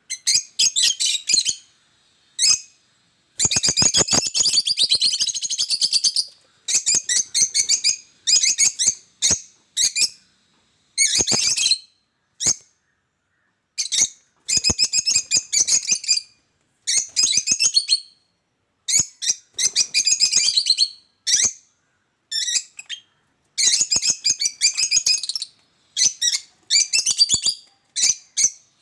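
Small pet birds chirping and chattering in repeated bursts of a second or few, with short silent gaps between and some sharp clicks among the calls.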